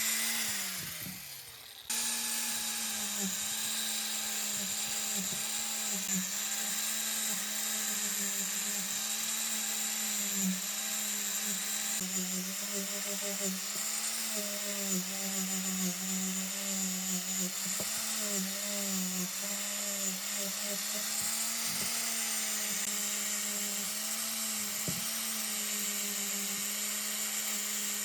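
A high-speed electric power tool running steadily, its pitch dipping and recovering as it works against the material. It winds down over the first two seconds, then cuts straight back in at full speed.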